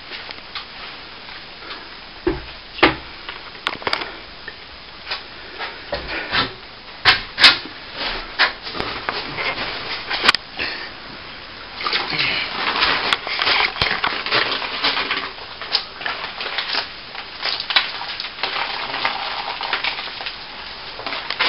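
A brush worked against a plaster wall: scattered sharp knocks and taps, then from about halfway a denser run of scratchy brushing strokes.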